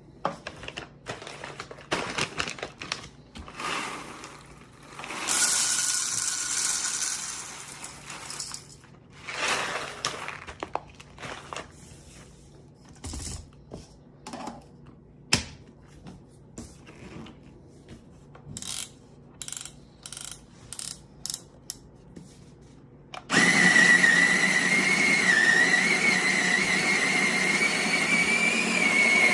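Assorted clicks, knocks and short rattling bursts as the coffee grinder is handled and filled, then about twenty-three seconds in the Asani conical burr grinder's electric motor starts and runs steadily with a high whine while it grinds coffee beans. The grinding motor is the loudest sound.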